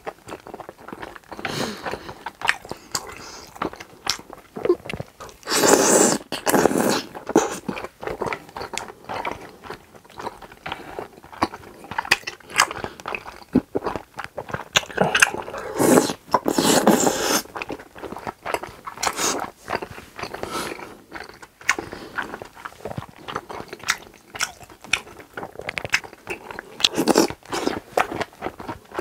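Close-miked chewing and wet mouth sounds of a person eating grilled pork intestines and tteokbokki rice cakes, with many small clicks and a few louder stretches about six and sixteen seconds in.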